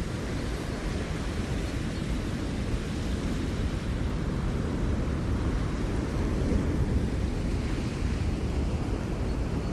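Ocean surf washing onto the shore: a steady roar of waves with a deep low rumble, swelling slightly a little past the middle.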